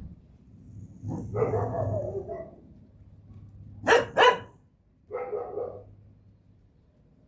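A dog barking in short bouts: a longer call just after a second in, two sharp barks in quick succession about four seconds in, and another shorter call a second later.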